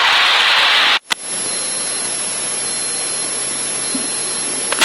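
Steady static hiss on the Cessna 152's headset intercom and radio audio. It drops out sharply about a second in, then comes back quieter with a faint high-pitched whine.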